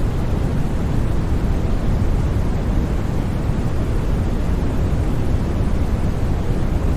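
Steady, unbroken white noise for sleep, an even hiss with no events or changes, its weight lying more in the low end than the high.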